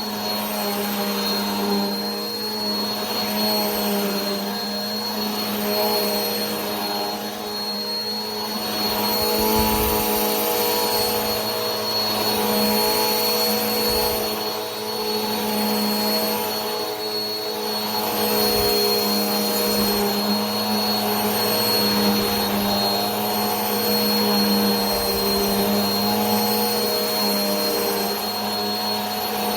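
Vacuum cleaner running steadily: a continuous motor hum and airflow rush with a thin high whine and a slightly wavering pitch.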